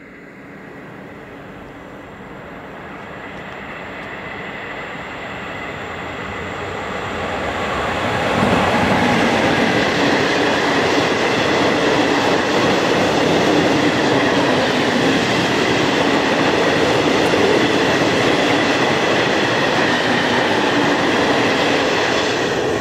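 Freight train passing at speed behind a class 185 electric locomotive, its flat wagons loaded with steel plates: the rumble of wheels on rail grows louder over about eight seconds as it approaches, then holds loud and steady as the wagons run past, starting to fade right at the end.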